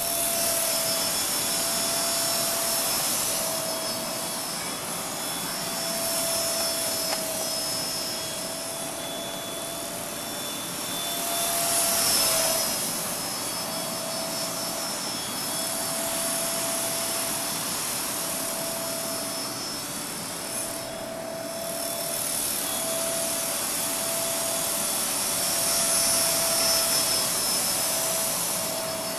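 E-Sky King RC helicopter in flight: a steady high whine from its motor and rotors over a rushing hiss. It grows louder and softer as the helicopter moves about, swelling most about twelve seconds in and again near the end.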